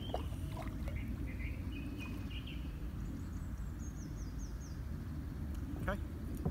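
Small birds calling over a steady low outdoor rumble: a few chirps in the first couple of seconds, then a short run of high, quickly falling notes around the middle. A couple of faint clicks come at the start and near the end.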